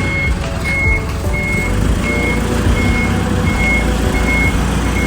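Tow truck's reversing alarm beeping steadily, short high beeps about one and a half a second, over the truck's engine running as it manoeuvres to get its wheel-lift fork under a car.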